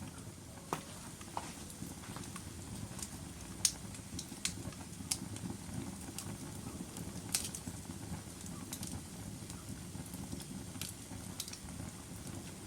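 Logs burning in a wood fireplace: a steady low rush of flame with irregular crackles and sharp pops, the loudest pops a few seconds in and just past the middle.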